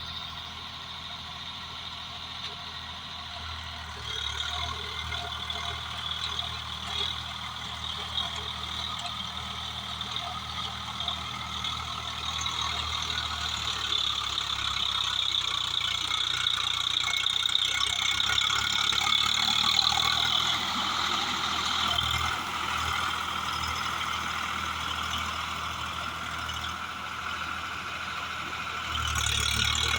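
Swaraj 744FE tractor's diesel engine running steadily under load while driving a rotavator through the soil, growing louder toward the middle and easing later.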